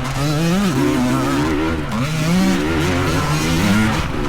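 Dirt bike engines revving, their pitch rising and falling over and over as the riders work the throttle through the trail.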